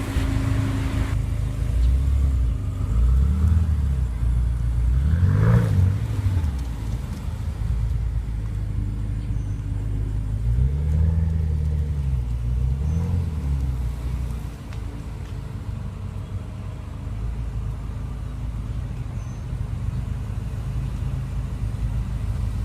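BMW M5 (F10) twin-turbo V8 running, with four quick revs that rise and fall in the first fourteen seconds or so, then settling back to a steady idle.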